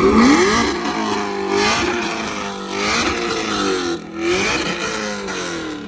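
A car engine revving several times, its pitch rising and falling over a steady idle.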